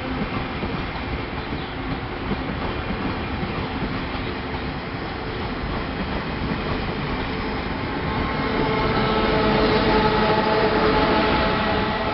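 Train running through the station with a steady rumble, growing louder about eight seconds in as several steady tones come in together, then easing near the end.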